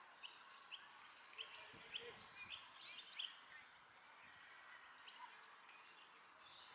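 A bird calling with short, sharp chirps, about two a second for the first three seconds, then a few more near the five-second mark, over faint outdoor background noise.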